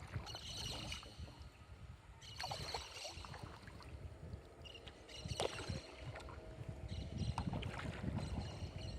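Kayak paddling on a still lagoon: paddle strokes and water lapping against the hull, with a few sharp knocks. High-pitched calls from the surrounding rainforest come and go in short spells every couple of seconds.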